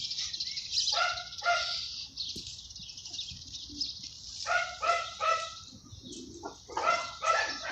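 A small dog yapping in short, high-pitched barks, in clusters of two to four: about a second in, around four and a half seconds in, and again near the end.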